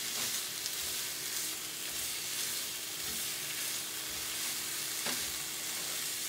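Sliced sausage and bell peppers sizzling steadily in a frying pan as they are stirred with a spatula, with a few faint clicks from the spatula. The sausage is browning while the peppers cook down.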